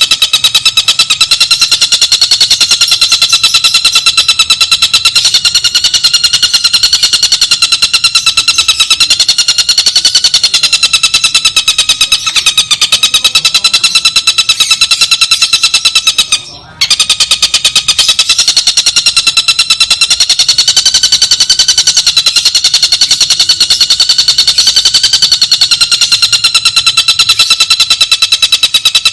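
Bird-song training recording: a loud, continuous, very rapid buzzy trill that wavers slightly about once a second and breaks off for a moment about two-thirds of the way through.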